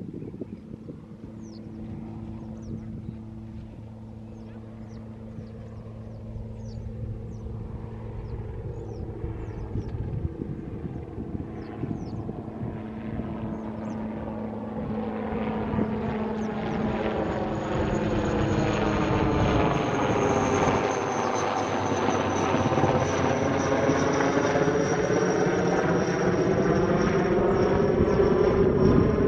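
An aircraft flying overhead, its engine noise growing steadily louder over the first twenty seconds and staying loud, with a high whine that slowly sinks in pitch. Small birds chirp in the first half.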